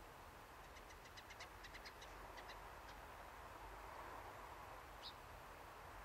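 Faint bird calls: a quick run of short, high chip notes, about six a second for two seconds, then a single short chirp near the end, over a faint steady hiss.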